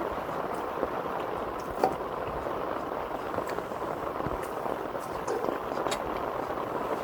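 Heavy rain falling steadily on tent and tarp fabric, a continuous hiss with a few sharper drip ticks, the loudest about two seconds in.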